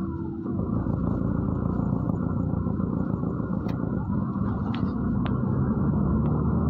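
Inside a MAZ-103 city bus under way: steady engine and road rumble, with a few short clicks or rattles in the second half.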